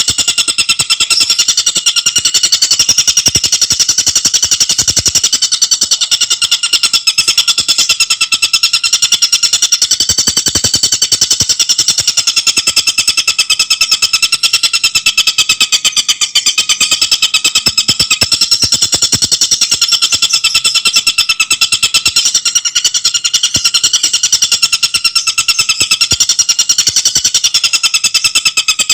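Tengkek buto bird calling in a loud, fast, unbroken rattling trill of sharp, closely spaced notes, kept up without pause.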